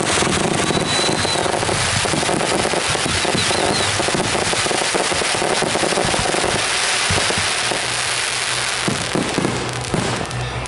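Consumer aerial fireworks going off in a dense, rapid barrage of bangs and crackling, the finale of a backyard show, thinning out near the end.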